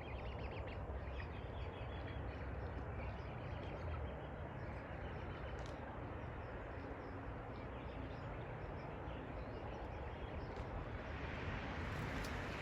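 Steady outdoor background noise with faint, scattered bird chirps as the flock settles to roost.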